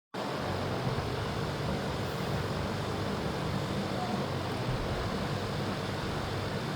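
Steady background noise with indistinct voices in it.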